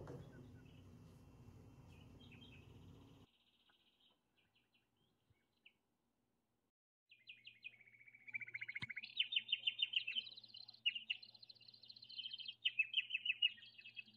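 Birds chirping and trilling in quick repeated notes. The song starts about seven seconds in after a near-silent gap. Before the gap, a low hum with a few faint chirps cuts off suddenly about three seconds in.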